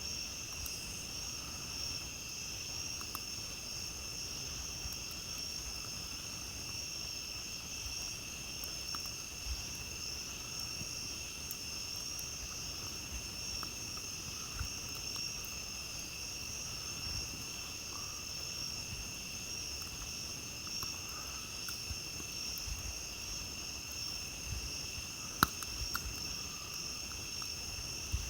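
A steady chorus of crickets, with a campfire giving scattered small crackles and one sharp pop near the end.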